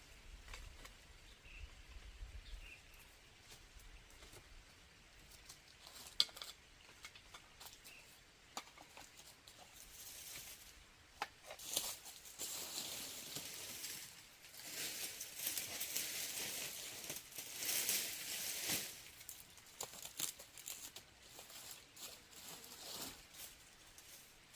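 Scattered rustling and crinkling with light clicks and knocks; the rustling swells in several stretches through the second half.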